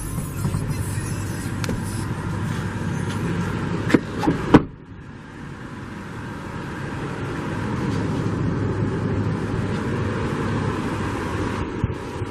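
A motor vehicle's steady running noise, broken by two sharp knocks about four seconds in, after which the noise drops briefly and builds up again.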